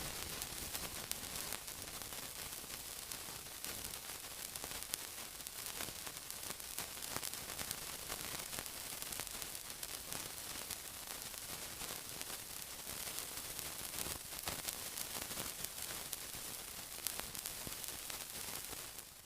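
Steady sizzling: a dense high hiss full of small rapid crackles, fading out at the very end.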